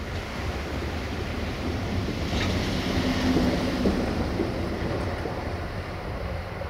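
Freight train approaching: a steady low rumble from an LE5100 electric locomotive, a 060-DA diesel locomotive and a train of tank wagons rolling over the rails, growing louder as it nears, with a few brief tones about halfway through.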